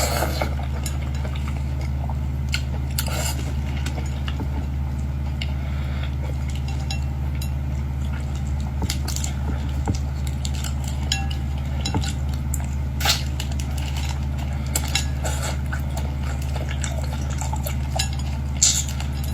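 Someone eating boiled seafood: scattered, irregular clicks and clinks of utensils, dishes and shells, with the sharpest clicks about thirteen seconds in and near the end, over a steady low hum.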